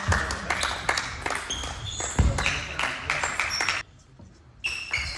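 Table tennis rally: quick, irregular clicks of the ball off rackets and table, mixed with short high squeaks. The sound drops to near quiet for under a second a little before the end, then the clicking resumes.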